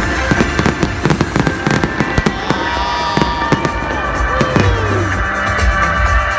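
Fireworks going off in quick succession, many sharp bangs and crackling pops, over music playing at the display.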